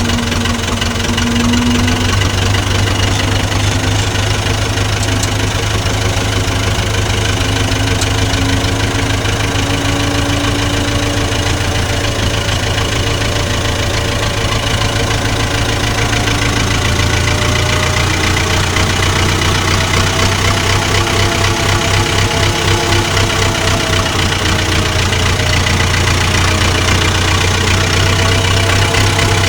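Farm tractor engine running steadily, with a low, even hum that pulses a little more about two-thirds of the way through.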